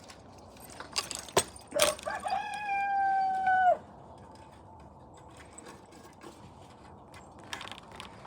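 A rooster crowing once: a held call of about two seconds that starts about two seconds in and breaks off at the end. A few sharp knocks come just before it.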